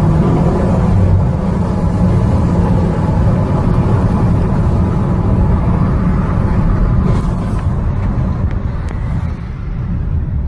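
Steady low rumble of a car on the road: engine and tyre noise, with a few faint clicks.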